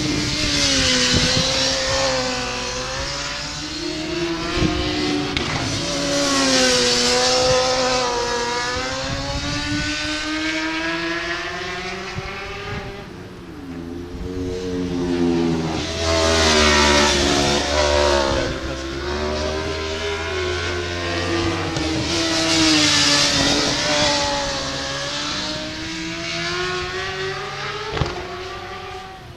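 Racing motorcycle engines at high revs passing one after another, pitch climbing and dropping as the riders shift and brake. There are four loud passes, with a quieter dip near the middle.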